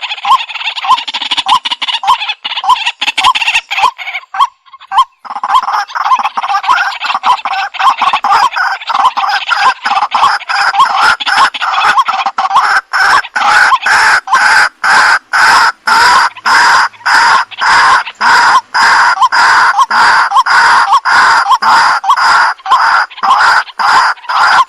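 Waterhen (jal murgi) calling loudly, a harsh call repeated a few times a second with a short break about five seconds in.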